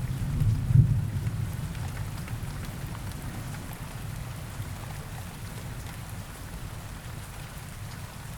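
Steady rain falling in a forest, with the last deep rumble of thunder swelling about a second in and then rolling away. The whole sound slowly fades.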